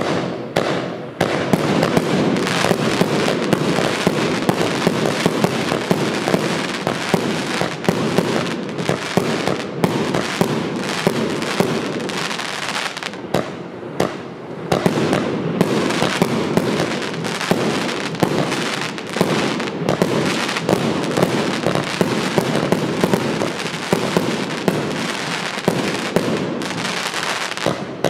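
Evolution Fireworks 'Snowstorm' 80-shot firework cake firing shot after shot, a dense, unbroken run of pops and bangs that goes on without a pause.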